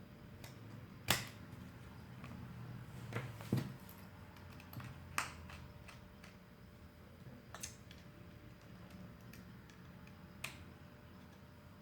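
Small tools and plastic phone parts clicking and tapping during the take-apart of a Samsung Galaxy Note 2: about six scattered sharp clicks, the loudest about a second in, over a faint steady hum.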